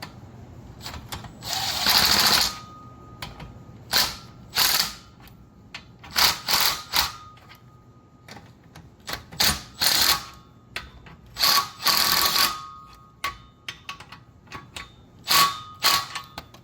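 Cordless power tool run in about a dozen short bursts of half a second to a second, with light metallic clicks between: running down the clamp bolts on an exhaust X-pipe.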